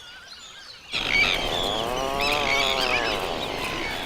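Many birds calling over a steady rush of noise, the sound jumping up suddenly about a second in. One long, low call rises and then falls in pitch in the middle.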